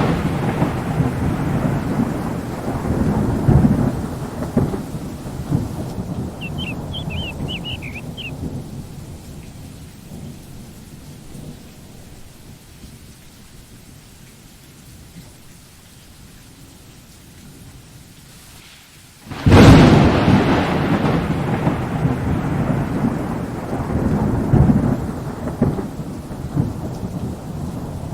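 Thunderstorm with steady rain. A long rumble of thunder dies away over the first several seconds, leaving the rain hiss, then a sudden loud thunderclap about 19 seconds in rolls on with a second swell a few seconds later.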